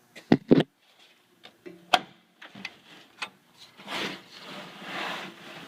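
Sharp clicks and clunks, three loud ones in the first two seconds, from handling the tractor's hood and its release. About four seconds in, a rushing noise sets in.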